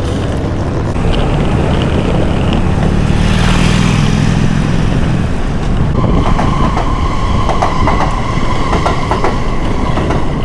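Train passing close by: a loud, steady rumble that swells in the middle, then from about six seconds a steady high whine over the clatter.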